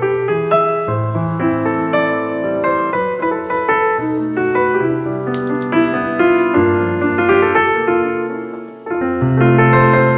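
Background piano music: sustained chords under a melody, playing steadily, with a brief drop in level about nine seconds in.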